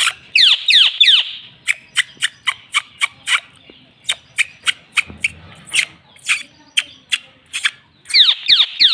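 Indian ringneck parakeet calling: a rapid series of short, sharp calls about three or four a second, broken by bursts of louder, downward-sliding screeches shortly after the start and again near the end.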